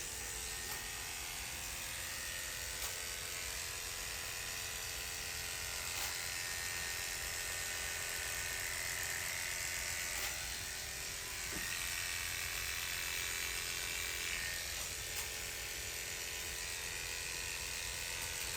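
Electric hair clippers buzzing steadily as they shave the scalp, the tone shifting slightly a few times.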